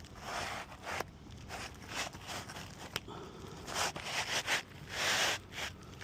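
Roof shingle being worked into place by hand: irregular scraping and rustling of shingle against shingle, with a couple of sharp clicks and a longer, louder scrape near the end.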